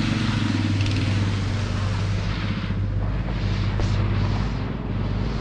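Heavy diesel engine of road-construction machinery running steadily, a constant low drone with a noisy hiss above it.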